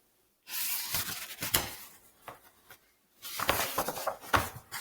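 Rustling and light clicks of a picture book being handled as a page is turned, in two bouts with a short gap between.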